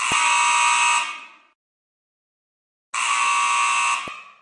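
Loud electric buzzer sounding twice, each harsh buzz lasting about a second, the second coming about three seconds after the first.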